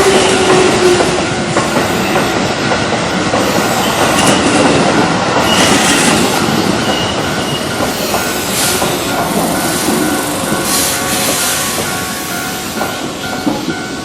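Keihan electric train passing over a level crossing, its wheels clattering over the rail joints. The crossing warning bell rings steadily in a regular beat beneath the train noise and comes through more clearly in the second half as the train sound eases off.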